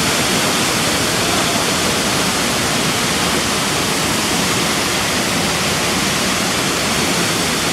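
Malabsay Waterfalls pouring: a loud, steady rush of falling water.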